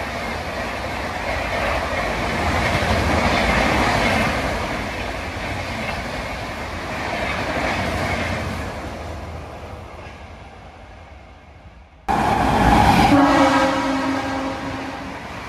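An express train's coaches passing at high speed, a loud rush that slowly fades over about ten seconds. After a sudden cut, a second express, hauled by a WAP-7 electric locomotive, runs through at speed, and about a second later its horn sounds a steady chord for a couple of seconds over the rush of the passing coaches.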